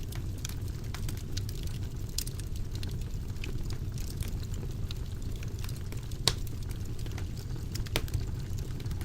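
Fire crackling in a fireplace: a steady low rumble of flames with frequent small snaps, and two louder pops, one about six seconds in and one near the end.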